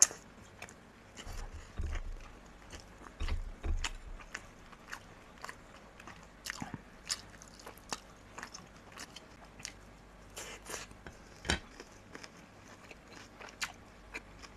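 Close-miked chewing and wet mouth sounds of a person eating a soft casserole of potato, zucchini, minced meat and melted cheese, with many irregular small clicks and smacks. There are a few dull low thumps in the first few seconds.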